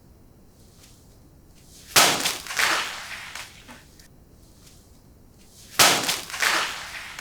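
Katana blade cutting through packaged snacks twice, each a sharp crack followed by crunching and crackling that dies away over about a second and a half.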